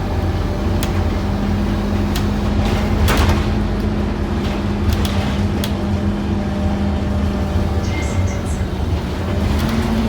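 Inside the cabin of a Scania N230UD OmniCity double-decker bus under way: its diesel engine runs with a steady drone, and short rattles and knocks come from the body and fittings. The engine note steps up slightly about nine seconds in.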